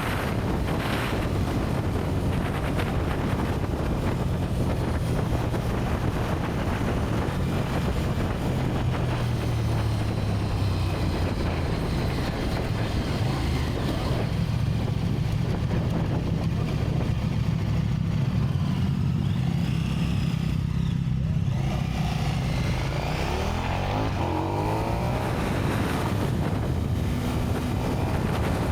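KTM 1290 Super Duke R's V-twin engine running under way on its stock exhaust, the engine note holding fairly steady, with wind rushing over the microphone.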